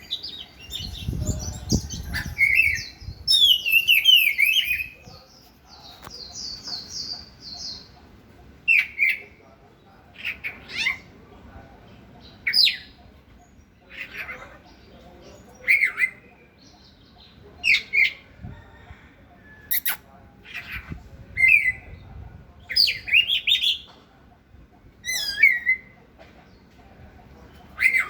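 Oriental magpie-robin of the white-tailed Indonesian form singing: a run of varied whistles and trills in the first few seconds, then short, sharp whistled phrases repeated about every two seconds.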